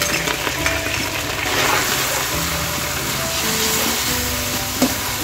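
Chopped onion sizzling in hot oil in a wok, stirred with a metal spatula, with one sharp knock near the end. Background music with a simple melody plays over it.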